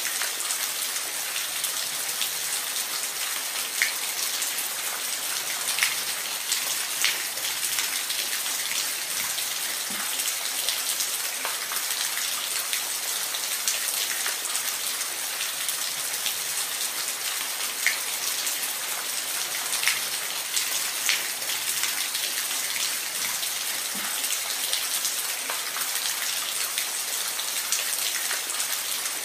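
Steady rain falling, an even hiss with individual drops ticking sharply here and there on a hard surface.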